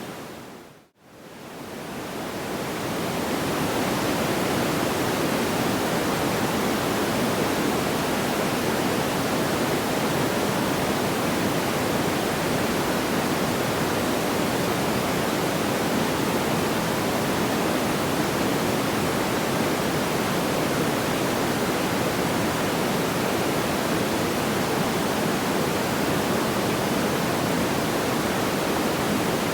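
Steady, even rushing noise with no distinct crackles. About a second in it fades briefly to silence and swells back over the next few seconds, the seam where the sleep-sound loop restarts.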